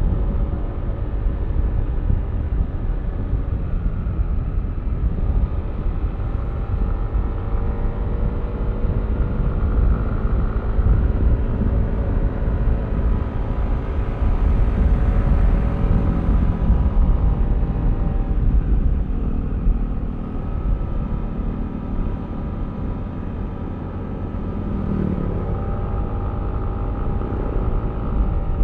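Yamaha Aerox V3 scooter's single-cylinder engine running under way, over a heavy low wind rumble on the microphone. The engine note eases off past the middle and picks up again near the end.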